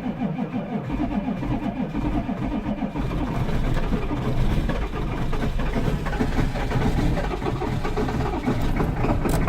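GM 6.5-litre V8 diesel being cranked over by its starter on a cold start without the block heater, turning over steadily with an even rhythm but not catching.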